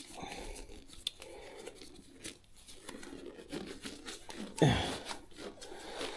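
Disposable rubber gloves being pulled onto the hands: quiet rustling, crinkling and small snaps of the thin rubber. A louder, brief sound with a falling pitch comes about four and a half seconds in.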